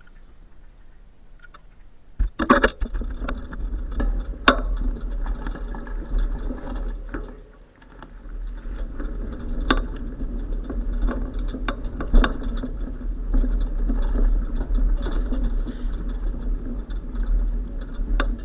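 Riding a bicycle: wind rushing on the microphone with a steady low rumble, and the bike rattling with scattered clicks and knocks, the sharpest about two and a half and four and a half seconds in. It is quieter for the first two seconds and dips briefly near the middle.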